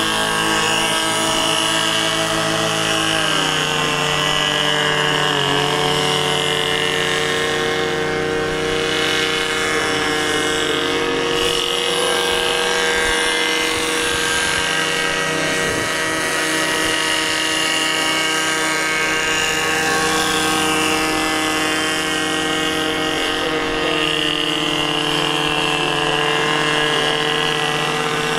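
RC airboat's model engines running steadily with their air propellers, a buzzing engine note whose pitch shifts about three seconds in and again near the end as the throttle is worked.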